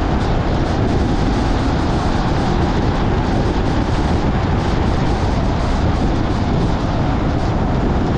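Steady road noise of a car driving, a constant low rumble and hiss with no changes.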